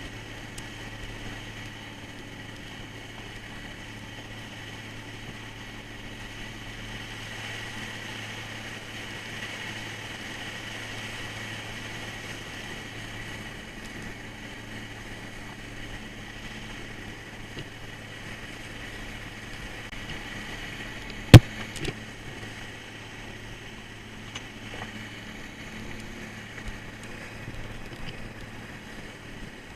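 Bottom-trawl fishing boat's engine running steadily under way, a low drone with a hissing, wash-like layer on top. About two-thirds of the way through there is a single sharp knock, the loudest sound, followed by a fainter one.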